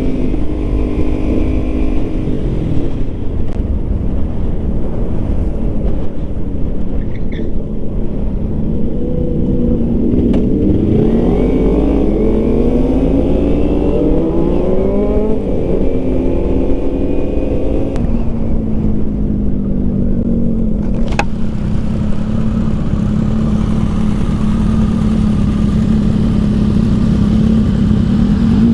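Yamaha MT-09 motorcycle engine under way: its pitch climbs in a run of rising sweeps from about nine seconds in as it accelerates up through the gears, drops back, then settles into a steady cruise near the end.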